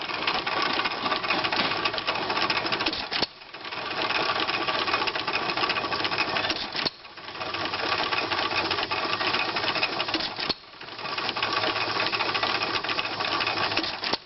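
E. Van Winkle cotton gin running with its saws turned by a 2 hp Jaeger hit-and-miss engine: a dense, rapid mechanical clatter. The clatter dips sharply three times, about every three and a half seconds, and builds back up each time.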